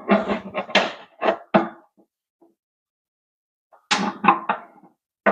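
Metal tool clanks and knocks while the oil drain plug is tightened under the truck: a quick cluster of sharp clatters, a gap of near silence, then another cluster from about four seconds in.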